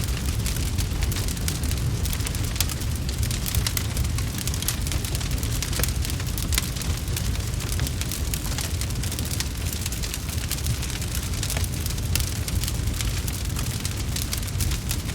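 Wood fire crackling continuously, a dense run of sharp pops and snaps over a steady low rumble.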